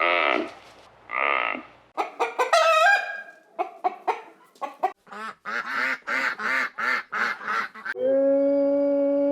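A quick succession of different animal calls: short cries, then a run of rapid pulsed calls about twice a second, then one long, steady, even-pitched call beginning near the end.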